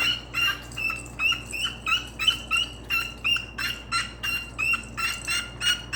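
A small bird calling over and over in short, sharp notes, about two or three a second, sounding like a little squirrel being tortured.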